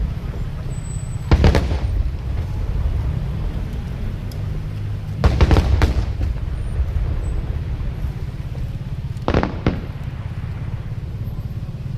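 Aerial fireworks shells bursting in three quick clusters of bangs: about a second in, midway, and near the end. A steady low rumble runs underneath.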